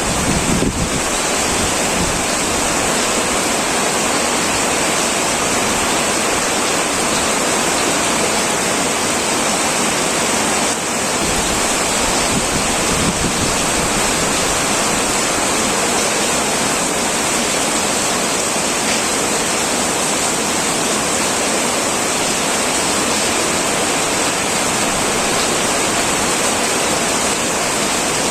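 Heavy rain pouring steadily onto a tin metal roof, an even hiss of dense drumming with no let-up.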